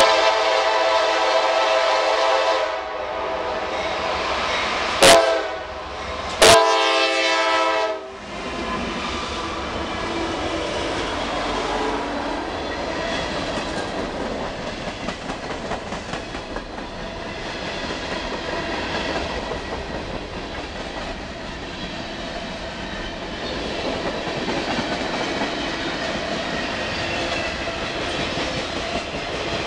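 Norfolk Southern freight locomotive's air horn blowing a long blast, a short one, then a final long blast that ends about eight seconds in: the close of the grade-crossing signal. Then the freight cars roll past with a steady rumble of wheels on rail.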